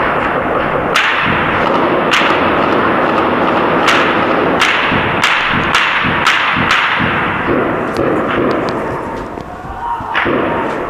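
Heavy gunfire: sharp single shots crack at irregular intervals over a dense, continuous din of firing and echo, thinning out near the end.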